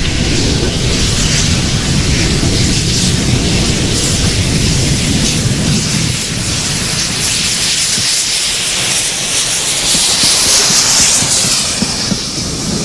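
Steam locomotive passing close by, a loud rushing roar of exhaust and motion with heavy rumble at first; the rumble eases about halfway through while a hiss builds, then drops away near the end as the train runs by.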